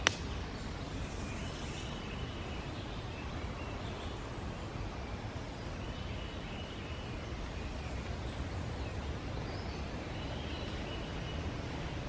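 Wind buffeting the microphone as a steady low rumble, with one sharp click at the very start and a few faint, distant bird calls.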